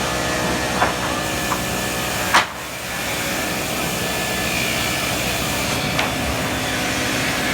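Sawmill machinery running with a steady hum, broken by a few sharp knocks. The loudest knock comes about two and a half seconds in, and the hum drops briefly after it.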